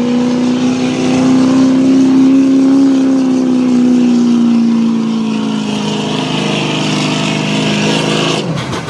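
Diesel engine of a 2005 Chevrolet 4x4 pickup running hard at high revs under full load while pulling the weight-transfer sled. Its note holds, then sags from about five seconds in as the truck bogs down. Near the end it breaks off abruptly as the pull ends.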